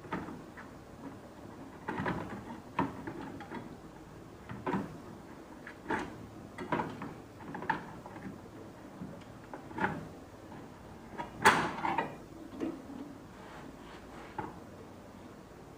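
Scattered clicks and knocks of tools and metal parts being handled inside an opened microwave oven, with one louder clatter about three-quarters through.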